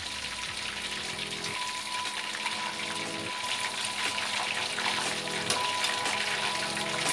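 Chicken pieces frying in hot oil in a wok: a steady sizzle full of small crackling pops, growing a little louder after about four seconds.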